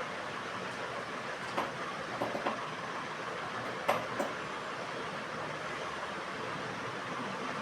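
A woodpecker pecking at wood: a few sharp, irregular single taps, two or three close together, over a steady background rumble.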